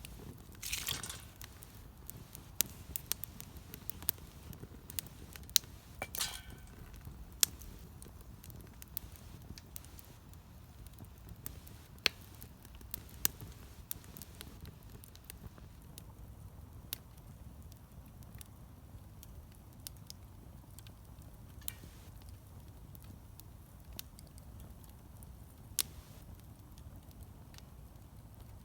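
Wood fire crackling in a Solo Stove Campfire fire pit, with sharp pops scattered throughout, more of them in the first half, over a low steady rumble. Brief hisses about a second in and again about six seconds in.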